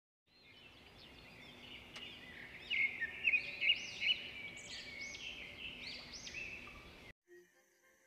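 Songbirds singing: many short overlapping chirps and whistled notes, loudest from about three seconds in, cutting off abruptly about seven seconds in.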